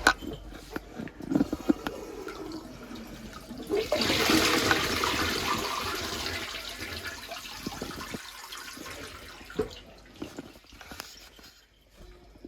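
Toilet flushing: a rush of water starts suddenly about four seconds in and slowly dies away over the next several seconds. Scattered small knocks and clatter come before it.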